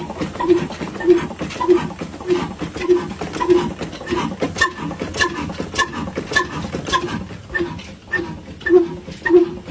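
Old slow-running engine with a regular exhaust beat, about two beats a second, with light clicking and ticking between the beats.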